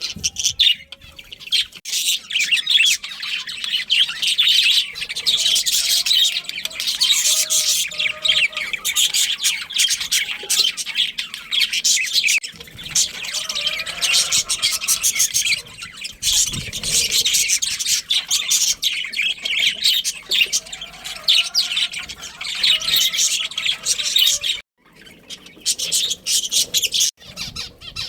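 A colony of budgerigars chirping and chattering continuously, many rapid high chirps overlapping, with a brief break near the end.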